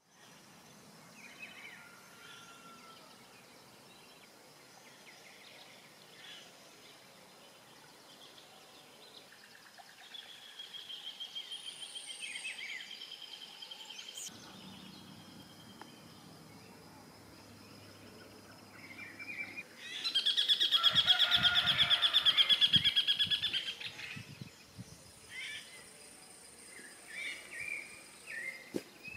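Several wild birds calling and singing, with trills of fast repeated notes; the loudest is a call of rapid repeated notes lasting about four seconds, about two-thirds of the way through.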